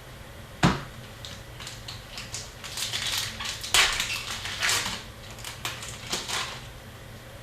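Hockey card pack wrapper crinkling and being torn open, with cards being handled; a sharp tap about half a second in and the loudest rustling in the middle.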